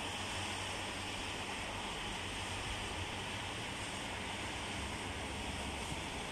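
Heavy rain falling, a steady, even rushing hiss with no breaks.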